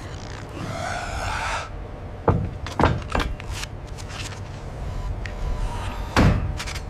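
A scraping slide, followed by several sharp knocks and thuds: three close together a couple of seconds in and a louder one near the end.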